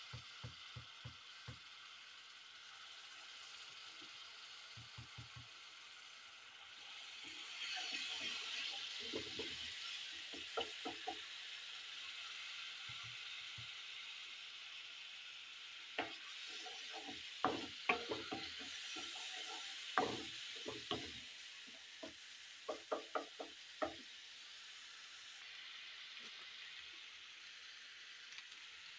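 Tomato and spiced onion masala sizzling in a hot oiled pan, with the sizzling louder after a few seconds. Over it come repeated bursts of knocking and scraping as the masala is stirred and the utensil strikes the pan.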